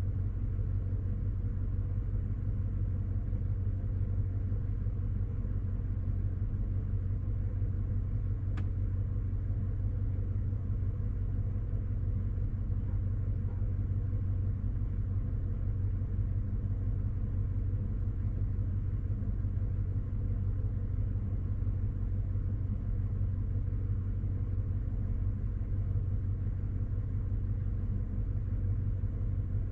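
Chevy Silverado's V8 idling steadily while it warms up after a cold start.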